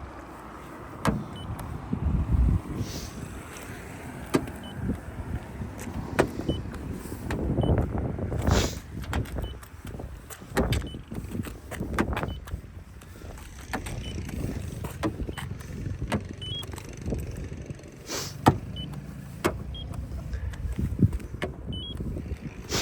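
Paint thickness gauge being put to a car's body panels: scattered knocks and handling noise, with short faint high beeps now and then as readings are taken.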